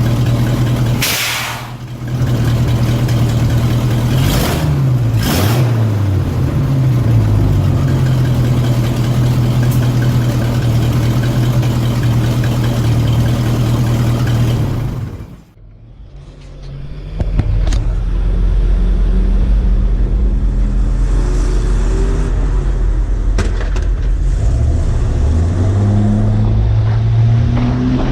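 Heavy truck engine running steadily, its pitch sliding up and down a few times as it revs and shifts, with short bursts of hiss about a second in and twice around four to five seconds in. The sound drops away briefly about halfway, then the engine picks up again and rises in pitch near the end.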